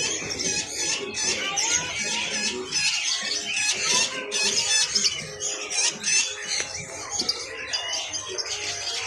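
Chorus of many caged birds chirping, squealing and squawking at once, dense and unbroken.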